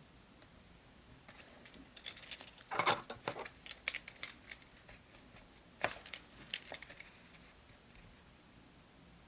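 Small clicks, taps and brief rustles of stationery being handled on a desk while a diary is decorated, with a sharp tap about six seconds in.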